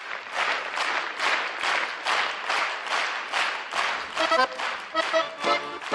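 Audience clapping in time, about two to three claps a second, as a garmoshka (Russian accordion) starts playing its first notes about four seconds in.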